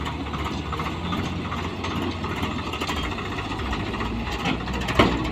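Diesel engine of a JCB 3DX backhoe loader running steadily, with one sharp knock about five seconds in.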